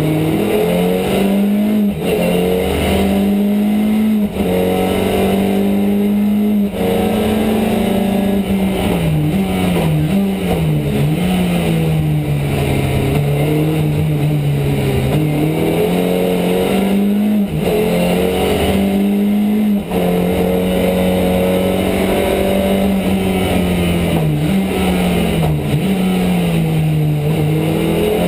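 Ford Escort Mk2 rally car's 2.4-litre Pinto four-cylinder engine, heard from inside the cabin at full stage pace. The engine note climbs and falls repeatedly, with a handful of brief dips where the pitch jumps down, as through gear changes.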